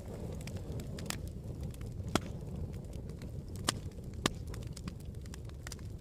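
Campfire crackling: a steady low rumble of burning with frequent small ticks and a few sharper pops, the loudest about one, two, three and a half, and four seconds in.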